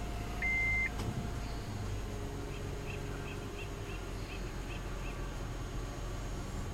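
Honda Odyssey 3.5 L V6 idling steadily with its battery removed, running after a start from a batteryless jump starter, heard from inside the cabin. A short electronic beep sounds about half a second in, and a click comes at about one second.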